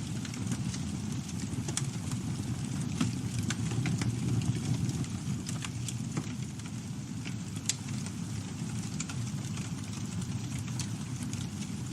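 Campfire burning: wood crackling and popping at irregular intervals over a steady low rush of flames, with one sharper pop about two thirds through.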